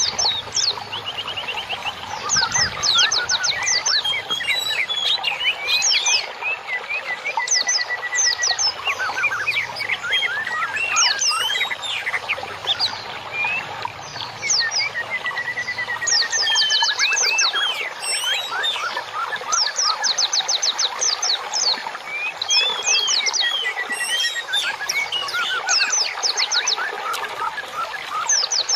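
Songbirds chirping and singing in a dense, continuous chorus of overlapping whistles, with fast trills of repeated high notes and a few longer even-pitched runs.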